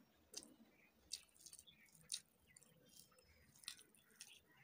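Faint, close-miked chewing of a mouthful of rice, with irregular wet clicks and smacks about every half second to second; the sharpest comes about two seconds in.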